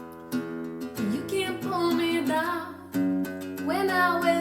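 Strummed acoustic guitar chords, with a voice singing a wordless melody over them, rising and falling, from about a second in.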